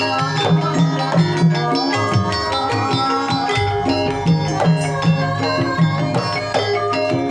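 Javanese gamelan music: many ringing metallophone tones held and overlapping above a steady, repeating drum rhythm.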